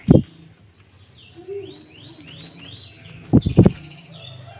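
A bird chirping a quick series of short falling notes. A dull thump at the start and a louder double thump a little past the middle stand out over it.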